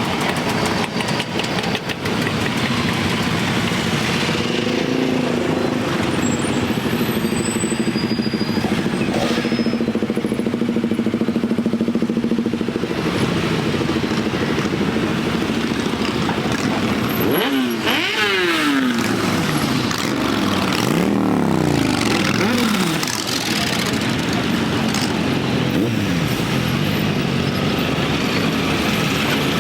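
A group of motorcycles riding slowly past with engines running steadily. A little over halfway through, one engine is revved up and down several times in quick succession.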